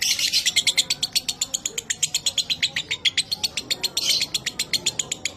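Lovebird giving its long 'ngekek' chatter: a fast, unbroken run of sharp high notes at about ten a second, loudest near the start.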